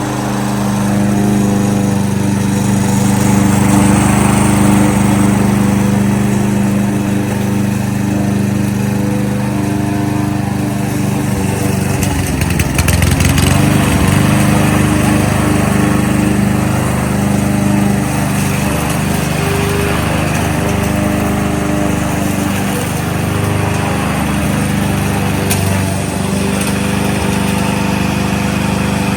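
Kohler XT-675 single-cylinder engine on a Yardworks push lawnmower running steadily, with a brief wavering in its note about twelve seconds in.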